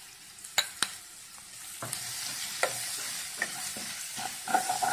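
Sliced onions, green chillies and curry leaves sizzling in coconut oil in a nonstick pan while a wooden spatula stirs and scrapes them. Two sharp clicks come under a second in, and the sizzle grows louder from about two seconds in as the mix is turned over.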